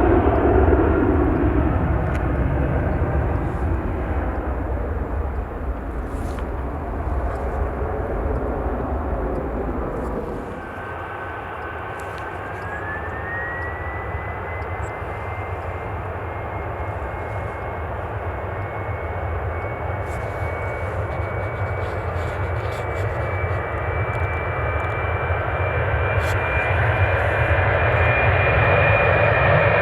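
Jet airliner engines: a loud low roar that dies away over the first ten seconds, then a thin whine that rises in pitch while the engine noise grows steadily louder toward the end.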